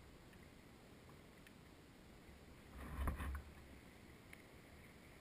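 Faint water sounds around a small boat such as a kayak, with a few light clicks and one louder splash and bump about three seconds in.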